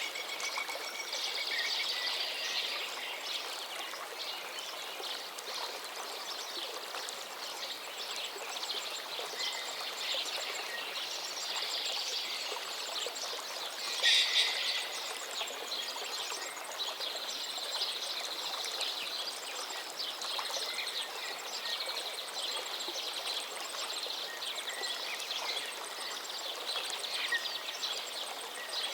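Songbirds singing over a gently flowing river, the water a steady rushing hiss. The song comes as many short, high phrases, with one louder burst about halfway through.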